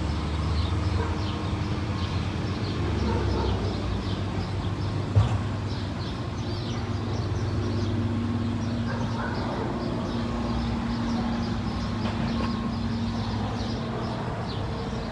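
Diesel garbage truck engine running steadily with a low hum, a second steady tone coming in about seven seconds in, and a single sharp knock about five seconds in.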